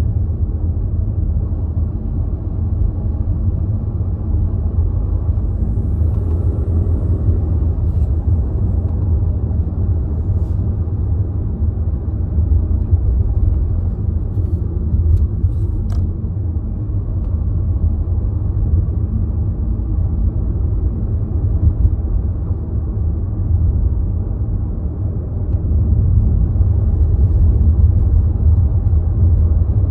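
Car running with a steady low rumble, heard from inside the cabin, growing a little louder near the end.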